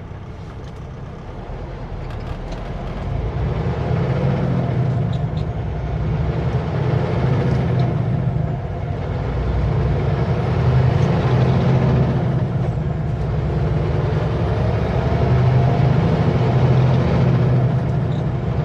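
Kenworth W900L semi truck's diesel engine running under way, heard from inside the cab: a steady low rumble that builds over the first few seconds as the truck pulls, then swells and eases. A faint high whine rises and falls several times.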